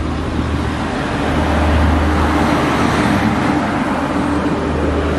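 Loud, steady running noise of a moving local train heard at its open door, as an express train hauled by an electric locomotive passes close on the adjacent track; the noise swells slightly about two seconds in.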